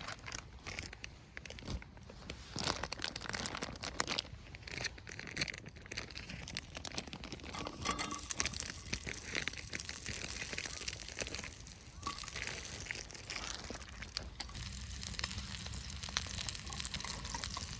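Crinkling and rustling, with many scattered small clicks and knocks, getting busier about halfway through.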